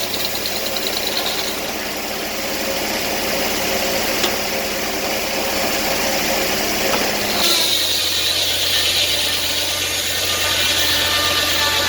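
Sawmill engine running steadily, its note changing about seven and a half seconds in.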